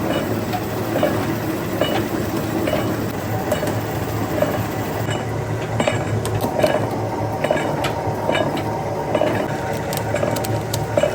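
Factory machinery running with a steady low hum, with light metallic ticks repeating slightly more often than once a second.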